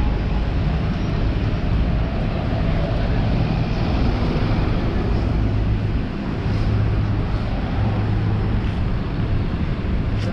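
Street ambience dominated by a steady low engine hum from a motor vehicle running close by, over a general wash of traffic noise.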